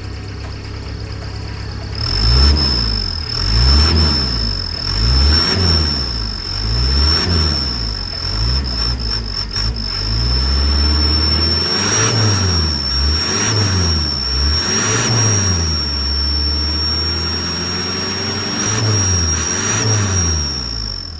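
Exhaust turbo whistler fitted to a Mitsubishi L300 pickup, giving a steady high whistle over the diesel engine as it is revved up and down repeatedly. The whistle is meant to mimic a turbocharged Mitsubishi Canter truck, and it is said to sound like one.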